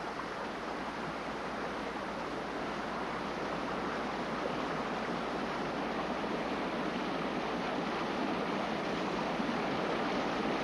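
Steady rush of sea surf, growing slightly louder.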